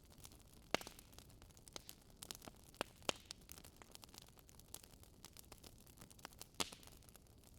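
Wood fire crackling in a fireplace: irregular small snaps and pops over a faint steady hiss, with sharper pops about a second in, around three seconds in, and near the end.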